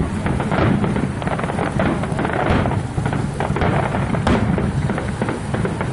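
Fireworks bursting in quick succession: many bangs and crackles running together over a steady low rumble.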